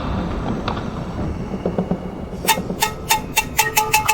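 A metal bell rung in rapid, even strokes, about five a second, starting about two and a half seconds in, over a low background rumble.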